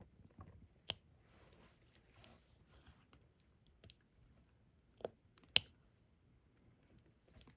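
Diamond-painting stylus picking up small resin drills and pressing them onto the adhesive canvas: faint scattered clicks, the sharpest about a second in and twice around five seconds in, with a soft rustle in between.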